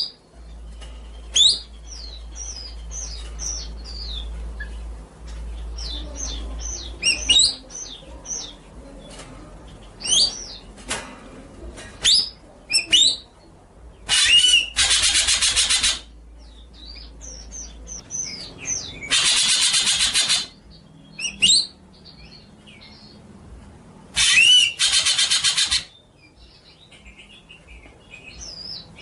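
Songbird song: quick chirps and sweeping whistles, broken three times by a long, harsh buzzing trill lasting a second or two.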